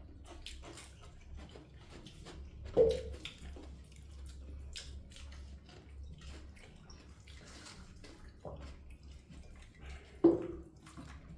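Wet mouth sounds of people eating: many small chewing clicks and lip smacks over a low steady hum. Two sharper, louder sounds stand out, about three seconds in and near the end.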